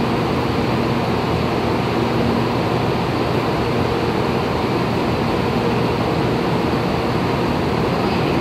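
Steady hum and rushing air of a Taiwan High Speed Rail train standing at the platform before departure, its air conditioning and onboard equipment running with a low, even drone.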